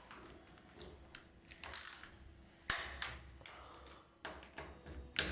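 Torque wrench working the bolts of a pipe repair clamp: a few sharp metallic clicks and small ratchet-like clatters, the loudest click a little past the middle. On a torque wrench such a click signals that the set torque of 10 Nm has been reached.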